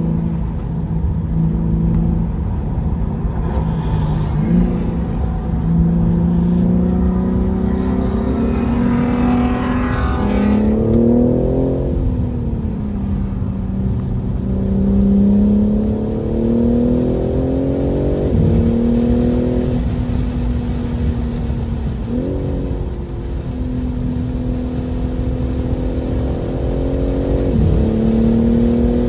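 BMW M3 Competition's twin-turbo inline-six engine driving under load. The revs climb and fall, with sudden pitch changes at gear shifts about five times.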